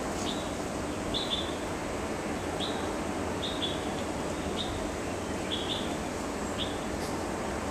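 A small bird chirping repeatedly, short high notes about once a second, some coming in quick pairs, over steady outdoor background noise.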